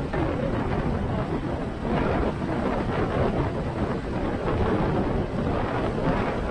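Steady wind buffeting on the microphone of a moving motorcycle, with a low road and engine rumble underneath.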